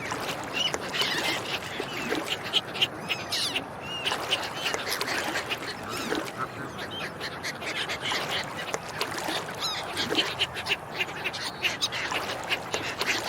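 Ducks quacking over and over, with other waterfowl calls and quick high chirps mixed in.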